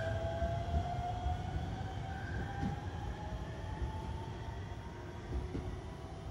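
Electric train running on the line: a low rumble with a thin motor whine that slowly rises in pitch, gradually growing fainter.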